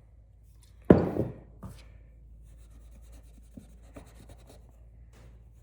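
A sharp knock about a second in, with two lighter knocks just after, then faint scratchy rubbing of fine steel wool on a pocketknife blade, with small ticks.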